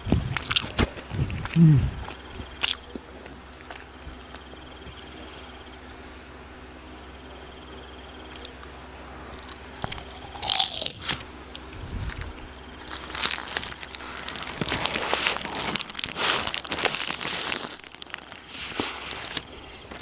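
Close-up biting, crunching and chewing of crispy fried fast food, with a few sharp bites near the start and a long run of dense crunching in the second half.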